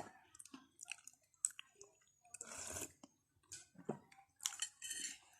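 A person eating rice-vermicelli beef noodle soup: irregular wet chewing and slurping with small clicks, and one longer slurp about two and a half seconds in.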